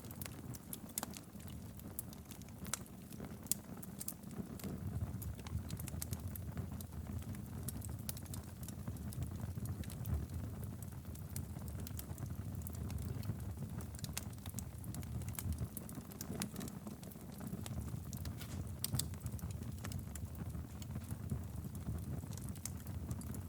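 Wood fire burning in a fireplace, a steady low rumble of flames with frequent sharp crackles and pops scattered irregularly throughout.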